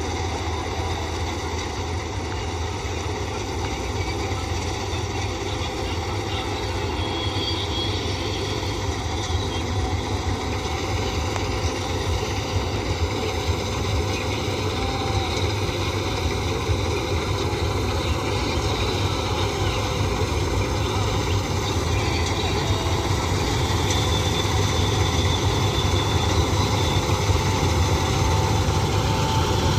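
Combine harvester's diesel engine and threshing machinery running steadily, slowly growing a little louder.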